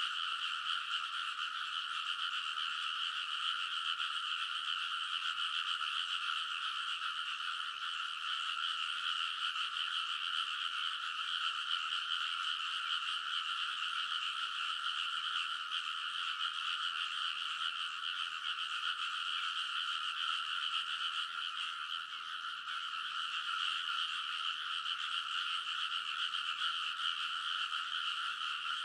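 A dense chorus of many frogs calling at the edge of a rice paddy. It is a steady, unbroken mass of calls in which no single frog stands out.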